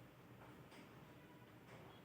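Near silence: faint room tone with a few soft, brief scratchy strokes.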